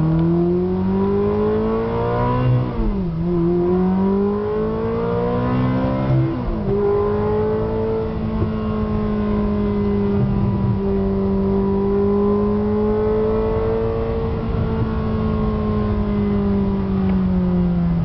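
Ferrari 360 Modena's flat-plane V8 with straight-piped exhaust, heard from the cabin, pulling up through the revs. Pitch drops sharply at two quick upshifts, about three and six seconds in. It then cruises at nearly steady revs and eases off slightly near the end.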